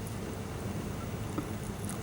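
Steady low background rumble with a couple of faint small ticks.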